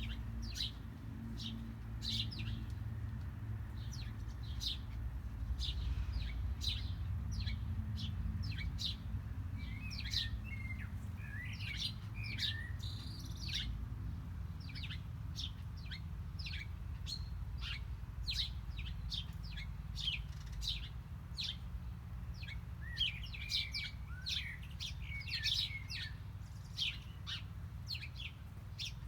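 Small birds chirping: short, sharp high chirps several times a second, with two spells of busier twittering, over a steady low rumble.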